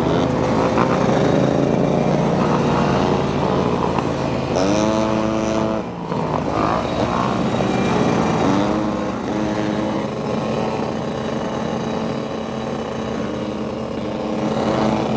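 Motorcycle engines running and revving, the pitch climbing sharply a few times as the bikes accelerate.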